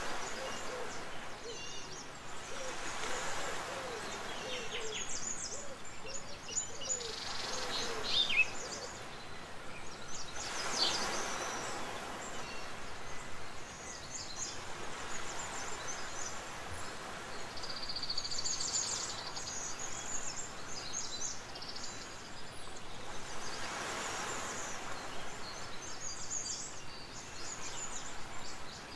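Bird ambience: scattered high chirps and calls over a steady hiss, with a series of low, repeated curved calls during the first several seconds.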